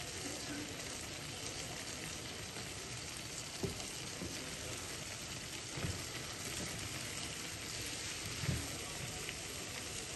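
Boiled black chickpeas frying in oil with whisked yogurt in a pan, giving a steady sizzle. Three soft knocks come a couple of seconds apart.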